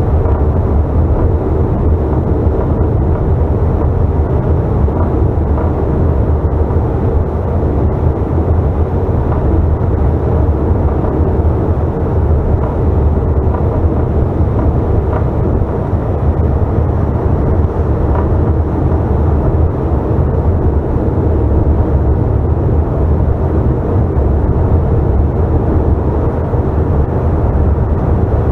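Steady cabin noise inside a Bombardier CRJ900 regional jet in flight: a constant low drone of its rear-mounted CF34 turbofans and airflow over the fuselage, with a faint steady hum riding on it.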